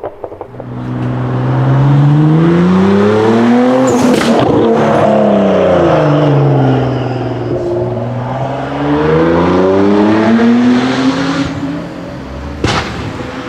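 Nissan GT-R R35's twin-turbo V6 revved hard twice. Each time the pitch climbs for a few seconds and then falls back. Crackles sound at the first peak, and a single sharp bang comes near the end.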